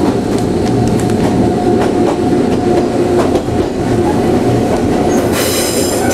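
Nankai Tenku sightseeing train running on the Koya Line, heard from its open-air observation deck: a steady rumble of wheels on rail with scattered clicks. About five seconds in, a high metallic squeal from the wheels starts and holds.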